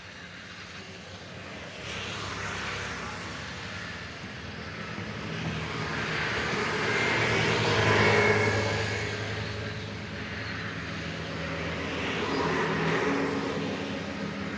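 Road traffic: motor vehicles passing over a steady engine hum. The sound swells as each one goes by, loudest about eight seconds in and again near the end.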